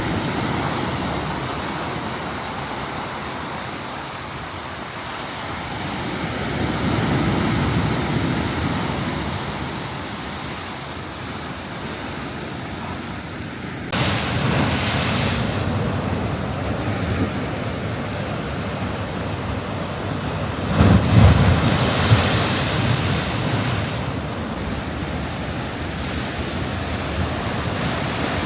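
Sea waves surging and breaking on the shore, two larger swells rising and falling, with wind buffeting the microphone.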